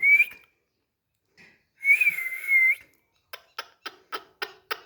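Whistling: a short clear whistled note, then a longer, slightly wavering one lasting nearly a second, followed by a quick run of sharp clicks, about four a second.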